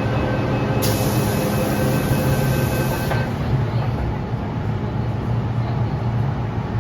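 MTR M-train running, a steady low rumble and hum. About a second in, a hiss starts and lasts about two seconds before cutting off.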